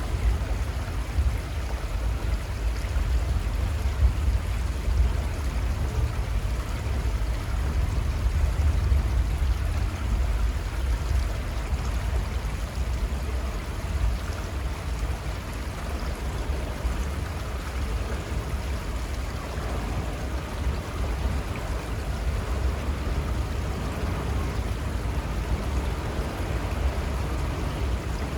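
River water flowing steadily, with a heavy low rumble underneath.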